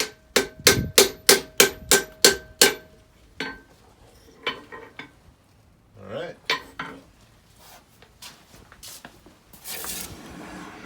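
A hammer striking hot steel on an anvil, about nine ringing blows at roughly three a second. Lighter metal taps and clinks follow, then a short hiss near the end.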